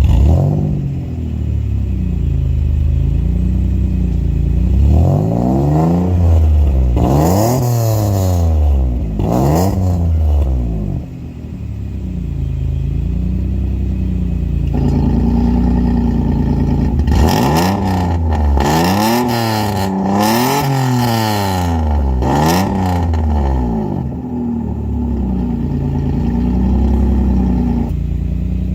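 Ford Probe's 2.5-litre KL-DE V6, supercharged with an Eaton TVS 1320 and breathing through an electronically valved active exhaust, idling and then blipped to higher revs several times in quick succession, each time dropping back to idle. There are two sets of rev blips, about five seconds in and again around seventeen seconds in.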